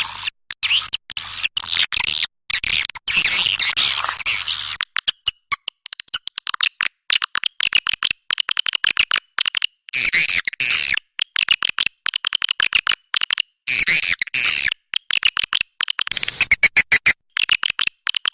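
Swiftlet lure call: dense, rapid, high twittering chirps from many birds, chopped by frequent abrupt short gaps, as played to attract swiftlets into a nesting house.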